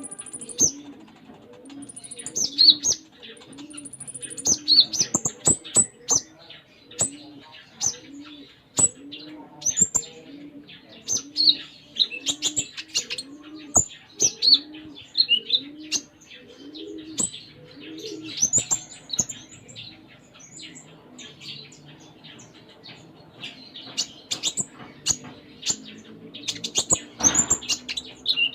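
Olive-backed sunbird (konin) singing a busy run of high chirps and trills, with sharp clicks between phrases. Under it a dove coos steadily about once a second, stopping about two-thirds of the way through.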